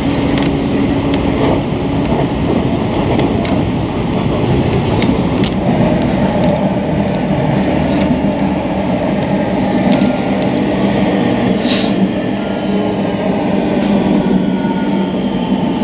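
Electric rapid train running, heard from inside the carriage: a steady rumble of wheels on rails, with one sharp click a little past the middle.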